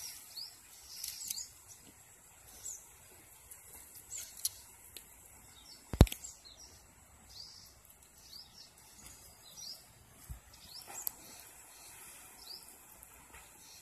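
Small birds chirping, with short, high, separate calls scattered throughout over a faint steady hiss. One sharp knock about six seconds in is the loudest sound, and a softer thump comes near ten seconds.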